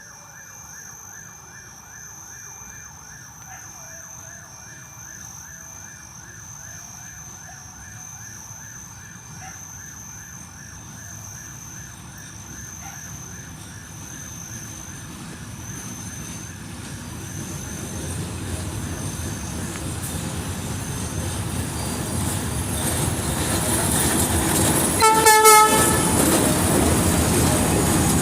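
FTL diesel locomotive 2007 approaching, its engine and wheel rumble growing steadily louder, with a short horn blast near the end.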